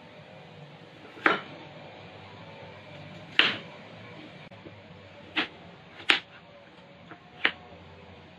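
Five sharp knocks of kitchen utensils, irregularly spaced one to two seconds apart, over a steady low hum.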